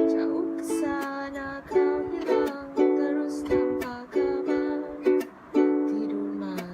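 Ukulele strummed in a steady rhythm, chords ringing and fading between strums, with a brief low note near the end.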